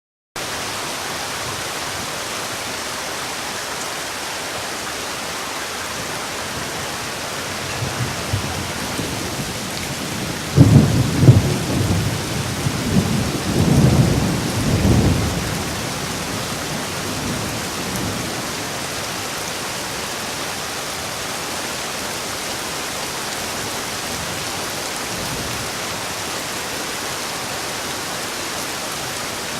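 Steady rain, with a low rumble of thunder that swells about ten seconds in and dies away by about sixteen seconds.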